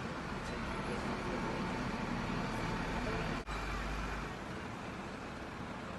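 Steady urban traffic noise, an even wash of road vehicles with no single vehicle standing out, broken by a very brief dropout about three and a half seconds in.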